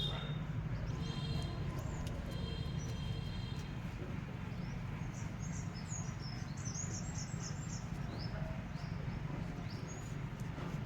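Small birds chirping and twittering in short repeated high calls, busiest in the middle, over a steady low hum.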